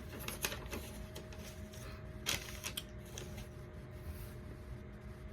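Several light clicks and knocks, irregularly spaced, over a steady low hum with a faint steady tone.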